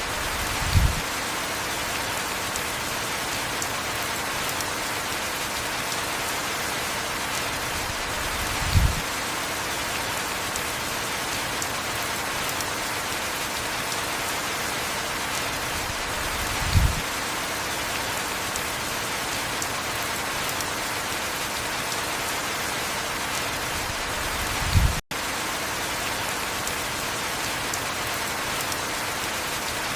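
Steady heavy rain falling. A brief low thump comes four times, about eight seconds apart, and the sound cuts out for an instant near the end.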